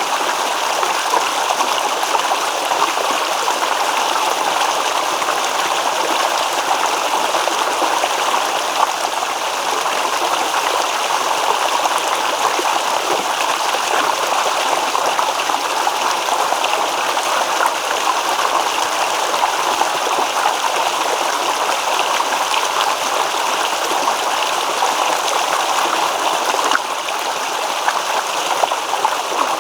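A babbling stream: water running and rippling over stones with a steady, continuous gurgle.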